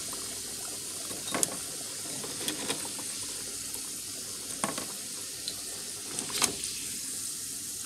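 Green plantain slices frying in hot oil in a skillet, a steady sizzle, with a few sharp clicks of metal tongs against the pan as the pieces are turned and lifted out.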